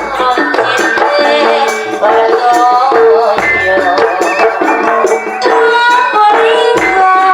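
Jaranan gamelan music played live: a repeating metallophone note, melodic lines and a steady beat of drums and cymbals, with deep drum strokes a few times.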